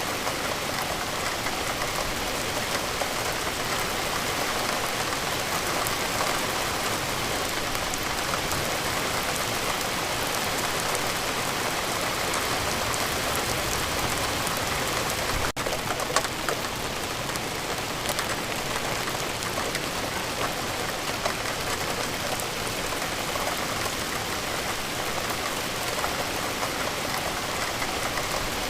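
Steady rain falling, an even hiss of many drops on surfaces, broken by a momentary dip and click about halfway through.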